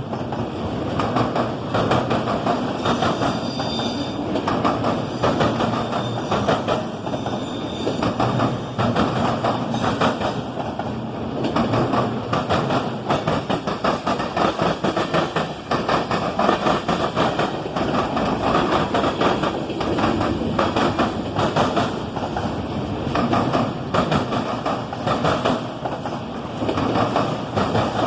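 Mixed freight train cars rolling past, steel wheels clattering over the rail joints, with a faint high wheel squeal a few seconds in.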